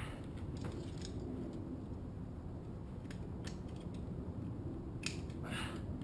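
Scattered light metallic clicks and clinks, then a brief rattling scrape about five seconds in, from hand tools and metal parts handled while taking apart an aircraft nose gear strut, over a steady low hum.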